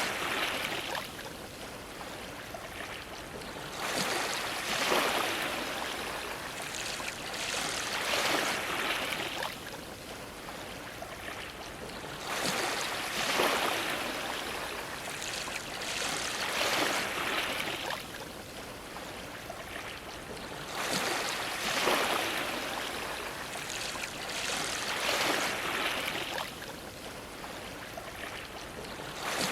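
Ocean waves washing against a dock, swelling and ebbing in surges every four seconds or so.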